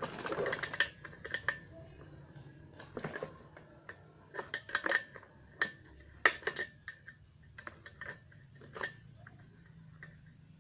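Irregular metal clinks, taps and scrapes of a tool working on a grass cutter's small engine as the spark plug is taken out.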